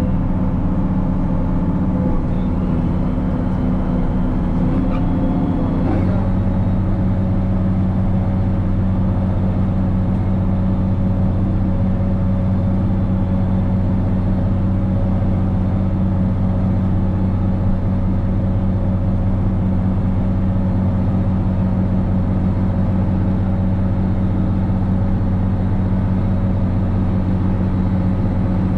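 Case 2670 tractor's turbocharged six-cylinder diesel engine running steadily under load while pulling a disc chisel plow. About six seconds in, its note shifts slightly lower and then holds even.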